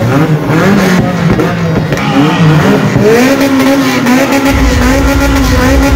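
Car engine revving up and down during a stunt-driving run, then held at a steady high rev about three seconds in; a low rumble joins about four and a half seconds in.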